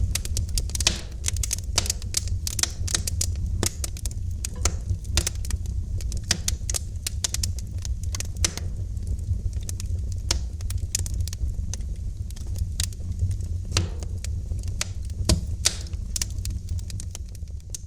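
Wood fire crackling in a fireplace: irregular sharp pops and snaps over a steady low rumble of the flames, fading slightly near the end.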